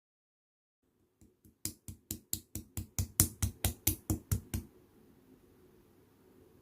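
A rapid, even run of sharp clicks made by hands, about five a second, lasting some three seconds and stopping abruptly, followed by a faint low hum.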